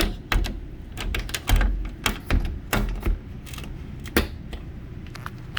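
A run of irregular sharp clicks and knocks, some with a low thump, from hard objects being handled and knocked together.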